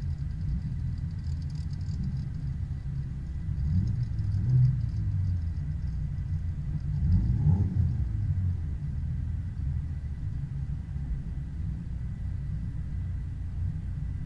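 Car engine running at low speed, heard on board while creeping along in a queue of cars, with a steady low rumble. The revs rise and fall briefly twice, about four and seven and a half seconds in. A faint steady high whine sits over the rumble.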